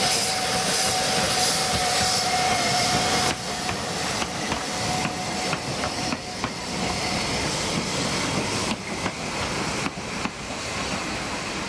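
Narrow-gauge steam train: a loud hiss of steam with a steady high tone for about three seconds, which cuts off abruptly, followed by the wheels clicking irregularly over the rail joints.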